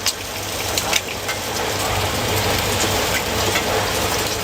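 Steady sizzling of food frying on a hot street-food griddle, with scattered small crackles and a low steady hum beneath.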